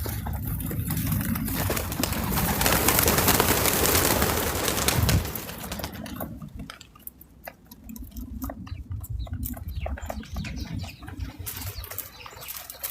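Birds at a backyard feeder. A loud rushing noise fills the first five seconds and stops suddenly, followed by scattered small taps and clicks.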